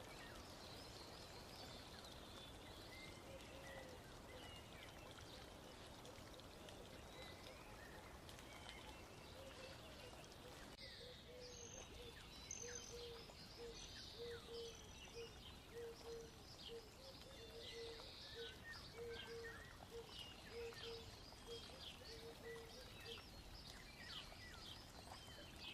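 Near silence: faint nature ambience with scattered bird chirps and a faint repeated low note through the middle.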